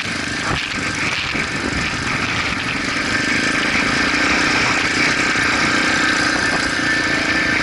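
Motorcycle engine running steadily, with a constant high whine on top that gets a little louder about three seconds in.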